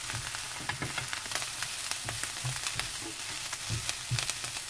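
Dried pollack strips and green onion sizzling in oil in a nonstick frying pan while being stir-fried, the spatula scraping and tapping against the pan at irregular moments. The strips were dipped in water and squeezed, and are frying until chewy-crisp.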